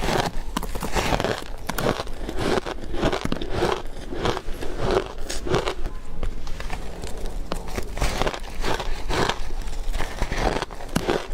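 Close-up crunching of ice being bitten and chewed, a continual irregular run of sharp crunches and crackles.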